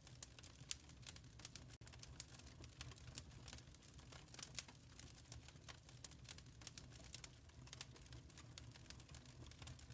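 Wood fire crackling in a fireplace: irregular small pops and snaps, several a second, over a low steady rumble.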